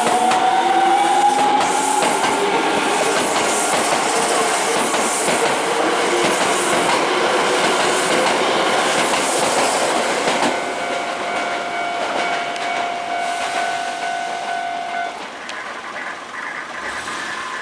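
Hankyu electric train passing over a level crossing: the wheels run loudly on the rails for about ten seconds, with the traction motors' whine rising in pitch at the start. Then the train noise falls away and a steady tone holds for several seconds.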